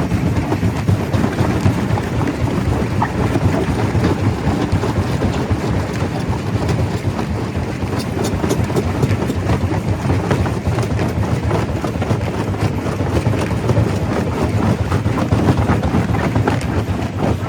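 Stone crusher running: a steady, loud low rumble overlaid with a constant clatter of small knocks as rock is broken.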